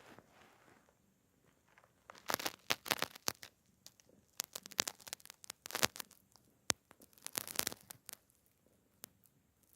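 A cat's claws snagging and pulling at a fabric blanket as it kneads, in irregular bursts of crackly scratching.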